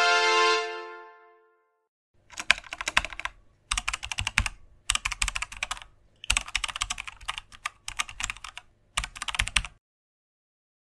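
A computer-keyboard typing sound effect: about six short runs of rapid keystroke clicks with brief gaps between them. It follows the tail of a music chord that fades out.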